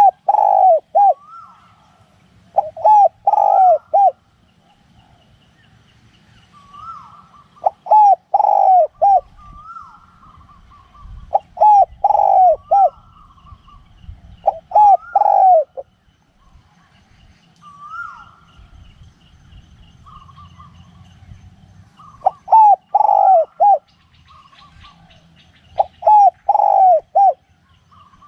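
Spotted dove cooing repeatedly, each phrase a quick run of three or four short notes, coming every three to four seconds. A fainter dove call answers between the phrases.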